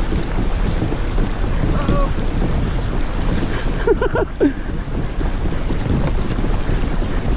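Wind buffeting the microphone with a steady low rumble, over water noise from kayaks being pedalled. Brief voice sounds, like a distant shout, come about four seconds in.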